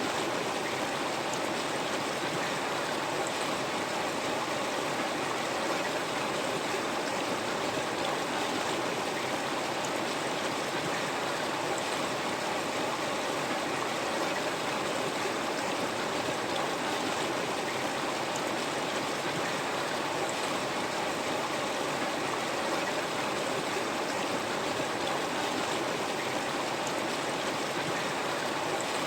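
A river flowing steadily: an even, unbroken rush of water with no change in level.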